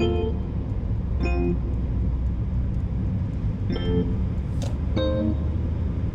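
Steady low road rumble of a car being driven, heard from the onboard camera, with background music of sparse short pitched notes laid over it every second or so. A brief sharp hiss-like noise cuts through about four and a half seconds in.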